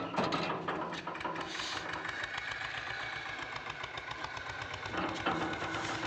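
Eicher tractor's diesel engine running with a steady, rhythmic chugging beat, following a sharp loud knock right at the start.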